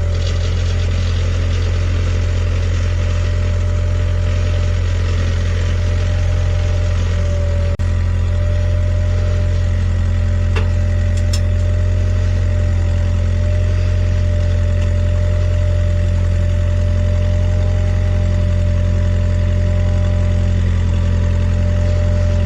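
Engine idling steadily at an even speed, a strong low hum with no change in pitch.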